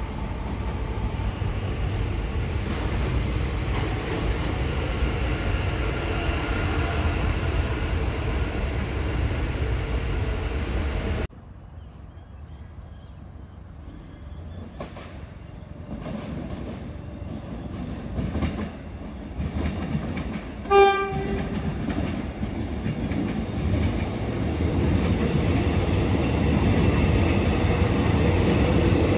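Melbourne suburban electric trains. A steady train rumble cuts off suddenly about a third of the way in. After a quieter stretch with a few clicks, a short horn toot comes about two-thirds through, and another train's rumble builds toward the end.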